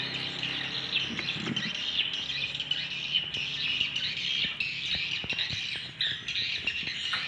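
Many swiftlets chirping and twittering at once, a dense high-pitched chatter with scattered sharp clicks mixed in.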